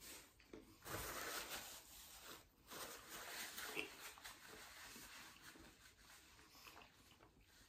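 Faint chewing of a chicken wing, with soft rustling loudest from about one to three seconds in.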